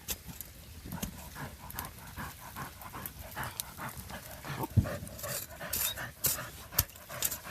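A dog panting while it digs in the dirt, with short scrapes and knocks of earth.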